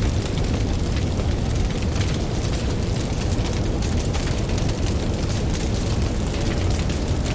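Campfire crackling with frequent small pops over a steady deep rumble of ocean waves.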